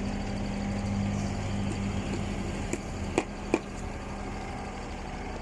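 Engine of a Putzmeister 36-4 concrete pump truck running steadily, with a few sharp metallic knocks a little after halfway.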